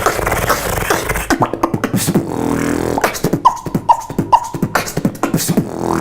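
Solo vocal beatboxing: fast mouth-made kick and snare clicks over hummed bass tones, with three short high-pitched tones a little past the middle.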